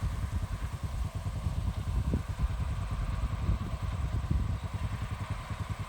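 Tractor engine running steadily, heard from inside the cab, with a fast low throb.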